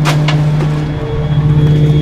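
Trash truck's engine running with a steady hum, with two sharp knocks right at the start.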